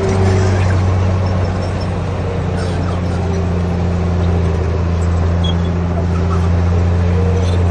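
Heavy diesel engine of a Komatsu D58P bulldozer running steadily, a deep even drone with faint higher tones wavering over it.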